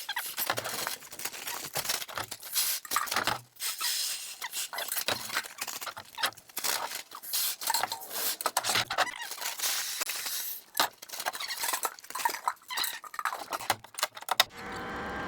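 Soybeans rattling and pattering in quick, irregular clicks, a sound easily taken for heavy rain on a roof. Near the end the pattering stops and a steady hum with a few held tones takes over.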